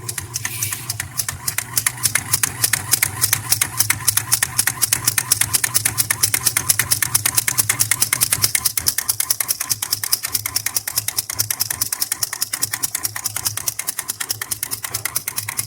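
Old Whirlpool washing machine switched on: a steady electrical hum with a fast, even clicking rattle, about ten clicks a second. This is the strange noise it makes while failing to spin, which the repairer suspects comes from a loose connection.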